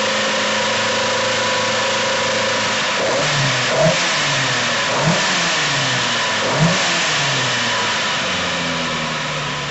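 Volvo 240 rally car's engine idling steadily, blipped up in short revs three or four times in the middle.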